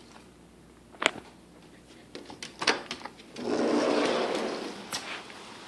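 Clicks and rattles of a door latch as a door is opened, then a loud rushing noise for about a second that settles into the steady hiss of rain through the open doorway.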